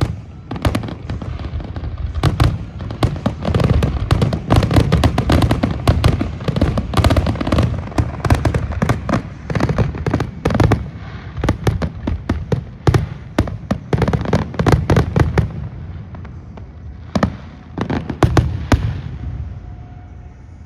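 Aerial fireworks finale: a dense, rapid barrage of shell bursts and crackling reports, many per second, thinning to a few last bangs and dying away near the end.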